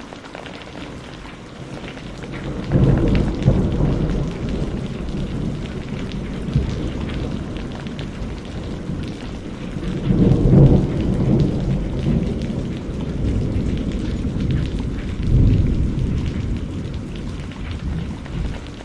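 Steady rain pouring, with thunder rolling in three low rumbles: about three seconds in, again near the middle, and once more past three-quarters of the way.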